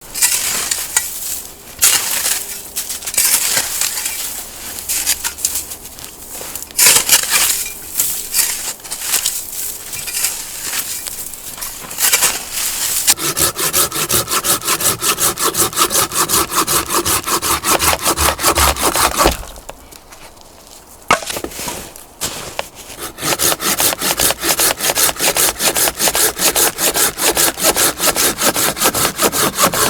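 Wood being sawn by hand for firewood: two long runs of quick, even saw strokes, the second starting after a short pause. Before them, irregular cracking and rubbing of wood.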